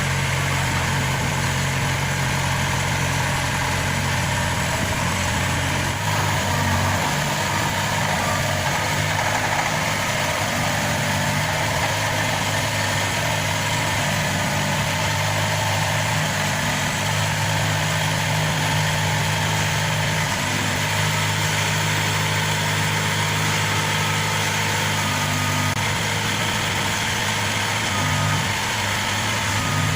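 Turbocharged diesel engine of a Maxxi NDR 85 Turbo combine harvester running steadily at low speed, with slight shifts in pitch now and then.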